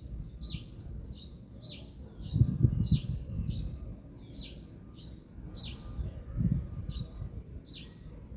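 A bird repeating a short, downward-slurred call about twice a second, steadily through the whole stretch. Gusts of wind rumble on the microphone twice, about two and a half seconds in and again near six and a half seconds.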